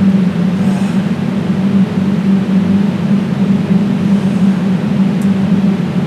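Loud, steady droning hum with a hiss over it, unchanging throughout.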